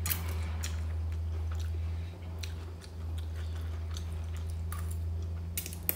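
A person chewing a mouthful of stir-fried noodles (veg chowmein), with short sharp mouth and fork clicks scattered through, over a steady low hum.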